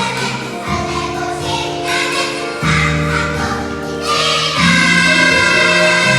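Kindergarten children's choir singing with instrumental accompaniment, a long note held from about four and a half seconds in.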